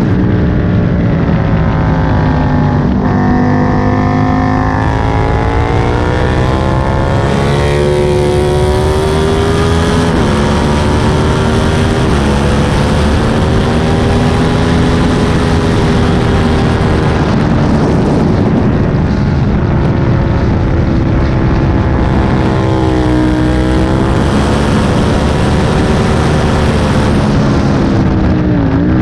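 Aprilia Tuono 1000's 60-degree V-twin engine on a track lap, revving up hard and then falling sharply in pitch several times as it shifts and brakes for corners, over a constant rush of wind noise.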